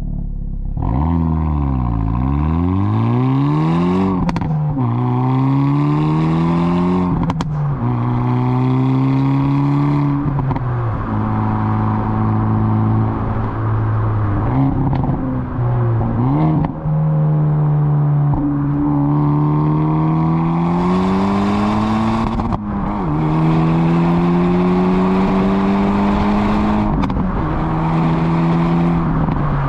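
Hyundai i30 N's 2.0-litre turbo four-cylinder engine under hard acceleration, changing gear through the six-speed manual. The engine note climbs steadily in pitch and falls suddenly at each shift, several times over, and some of the shifts bring a short sharp crack.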